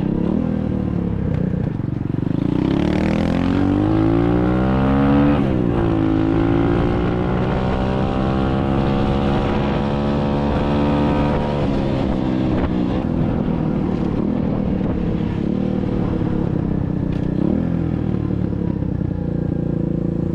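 SSR 125cc dirt bike's single-cylinder engine accelerating: the revs climb about two seconds in, drop sharply with a gear change around five seconds, climb again, then settle to a steady cruise for the rest.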